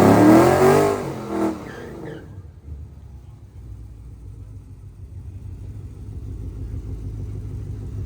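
Drag-racing car at full throttle, its engine pitch climbing, then fading away about two seconds in. A low, steady engine rumble is left and grows slowly louder near the end.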